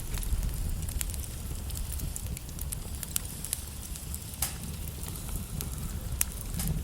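Wood logs burning in a fireplace: irregular sharp crackles and pops of differing loudness over a steady low rumble.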